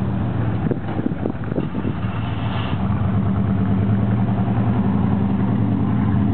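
Engine of a third-generation Pontiac Firebird running at low speed as the car rolls slowly past close by: a steady low engine note that grows louder about two and a half seconds in.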